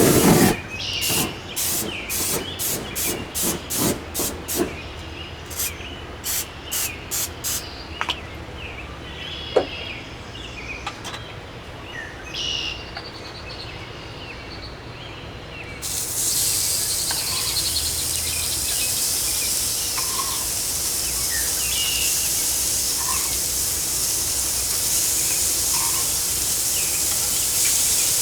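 A run of short hissing bursts in the first several seconds, then, from about halfway through, a steady sizzle: slider patties frying on a hot Weber grill.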